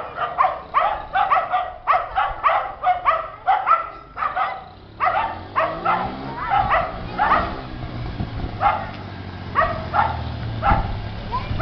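Dog barking over and over, quickly at first at about three to four barks a second, then more slowly. About six seconds in, an engine comes up and runs low and steady underneath.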